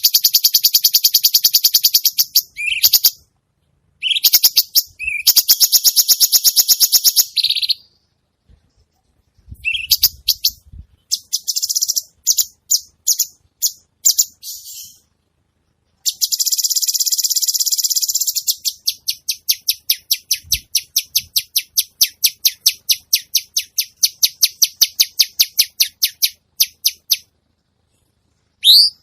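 Songbird calls from a tutoring recording of harsh 'kasaran' notes. Loud, high-pitched rapid buzzing trills and chattering phrases are separated by abrupt silences. The second half is a long series of sharp, evenly spaced notes at about three a second.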